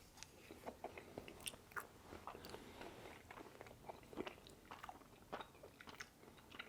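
A person chewing food close to the microphone, with a steady run of short mouth clicks and crackles, several a second.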